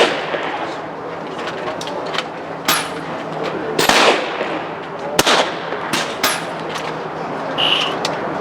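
PCP air rifles firing along a benchrest firing line: several sharp shots from different benches at irregular intervals, over a low background murmur. A short high tone sounds near the end.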